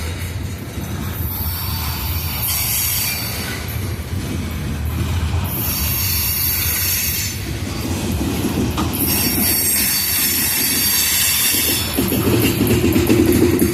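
Cars of a coal train rolling past, steel wheels on rail making a steady low rumble, with high-pitched wheel squeal coming and going in about four spells.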